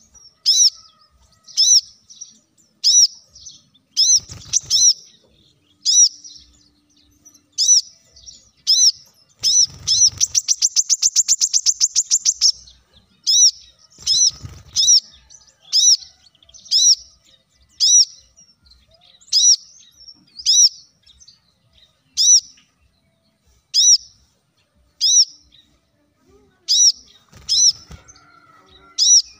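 Brown-throated sunbird (kolibri kelapa) calling: sharp, high two-part notes repeated about once a second, with a fast, even trill of rapid high notes lasting about three seconds near the middle. A few low thumps sound under some of the notes.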